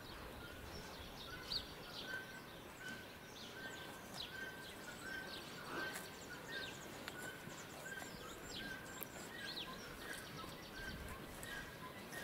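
Faint outdoor background with small birds chirping: one short call repeats about once a second, and quick high chirps are scattered over it.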